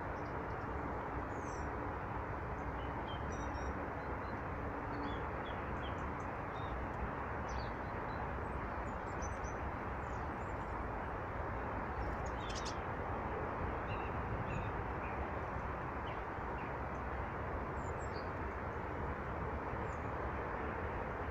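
Small birds giving short, high chirps on and off throughout, over a steady rushing background noise.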